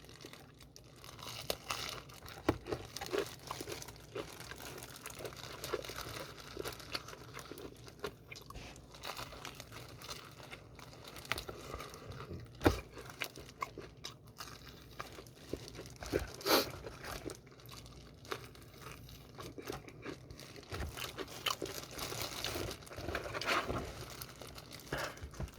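Close-up chewing and crunching of BHC Puringkle fried chicken, a steady run of small crackles and wet chews with a few sharper, louder crunches, the loudest about 12.5 and 16.5 seconds in.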